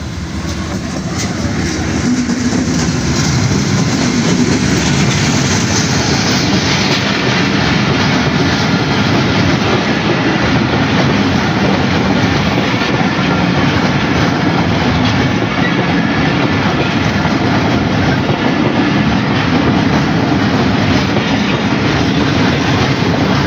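Pakistan Railways passenger train passing close by, its wheels clattering over the rail joints. The sound swells over the first few seconds, then holds as a loud, steady rumble and clatter.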